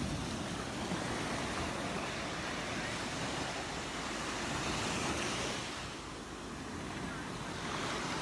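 Gulf of Mexico surf washing onto the beach, swelling about five seconds in and again near the end, with wind buffeting the microphone.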